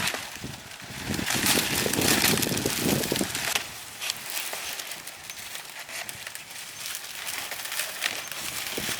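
Rustling and crackling with scattered clicks, loudest in the first few seconds, as of dry material being handled.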